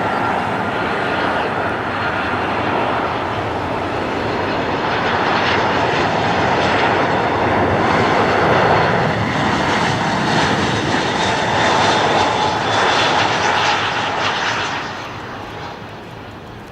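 Jet airliner's engines passing close by, building steadily to a peak and then fading away near the end.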